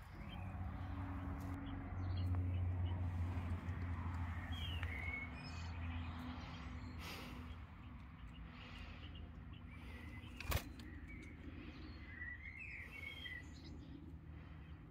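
Scattered short bird chirps over a low steady hum, with one sharp click about ten seconds in.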